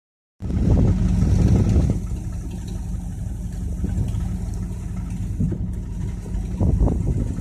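Vehicle engine running, a low steady rumble that is louder for the first second and a half or so, settles lower, and swells briefly again near the end.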